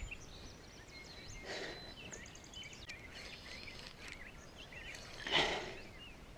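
Songbirds chirping and trilling in the background, with two brief rushing noises: a faint one about a second and a half in and a louder one about five seconds in.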